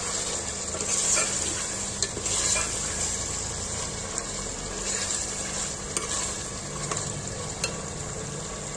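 Chicken pieces sizzling as they fry in hot oil with onion and ginger-garlic paste, being browned, while a metal spoon stirs them and now and then clicks against the pot.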